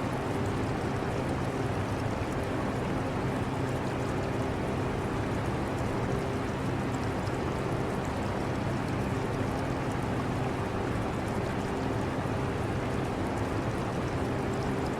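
Portable air conditioner running with a steady hum, mixed with the trickle and bubbling of an aquarium's water.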